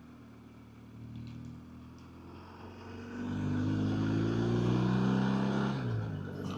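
BMW R1250GSA's boxer twin engine under way, quiet at first, then louder about halfway in with its pitch rising steadily as it accelerates, before the pitch drops sharply near the end.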